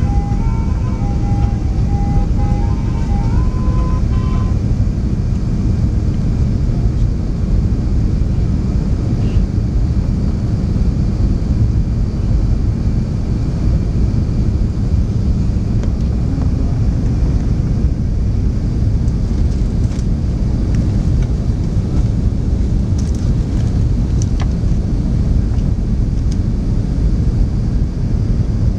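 Steady low rumble of engine and airflow noise inside the cabin of an Airbus A380 with Engine Alliance GP7200 engines. A few faint notes of cabin background music fade out in the first few seconds.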